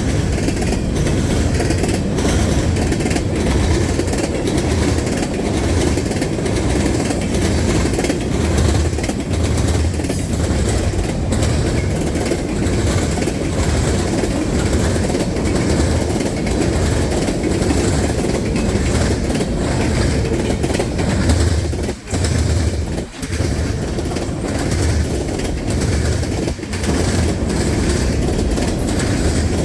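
A Norfolk Southern train's cars rolling past at close range, their wheels clacking over the rail joints in a steady rhythm. The sound briefly dips twice near the end.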